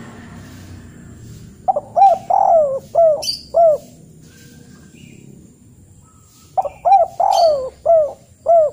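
A bird calling: two phrases of about five short notes each, every note rising then falling in pitch. The first phrase comes about a second and a half in, the second near the end.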